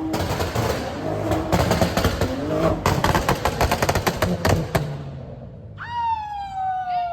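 A car engine revved hard, with a fast run of sharp exhaust pops and crackles, then a high drawn-out tone that slides slowly downward near the end.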